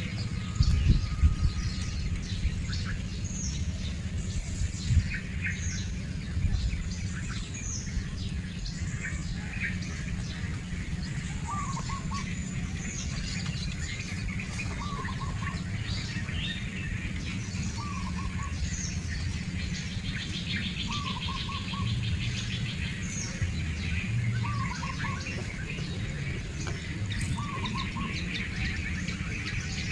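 Birds chirping and calling, with many short high chirps and one call repeated about every two seconds. Low thumps and rumble sound in the first few seconds.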